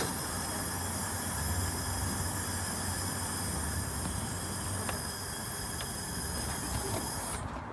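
Espresso machine steam wand steaming milk: a steady hiss with a faint high whistle over a low hum, cutting off sharply about seven seconds in.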